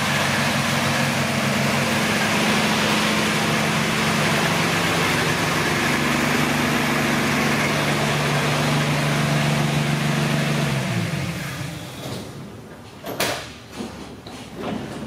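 1962 Ford F-100's 223 cubic-inch straight-six idling steadily, then shut off about ten seconds in, winding down with a falling pitch. A few sharp knocks follow, the loudest about two seconds after shutdown.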